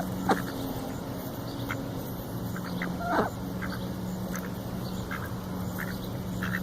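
Ducks calling: two short quacks, about a third of a second in and about three seconds in, with fainter short calls in between, over a steady low hum.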